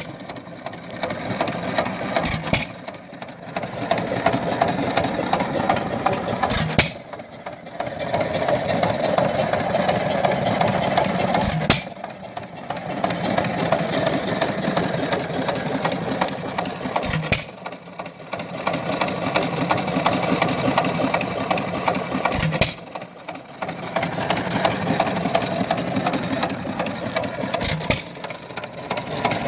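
6 hp Economy single-cylinder hit-and-miss engine running: a sharp bang from a firing stroke about every five seconds, with the steady clatter of the engine coasting on its flywheels between firings.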